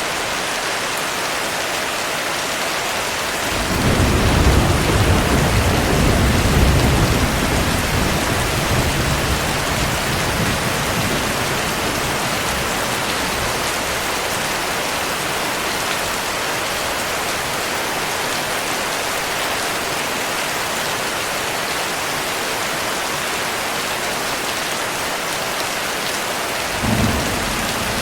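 Heavy rain falling steadily, with a long roll of thunder that starts about three and a half seconds in and slowly fades over several seconds. A short low rumble of thunder comes near the end.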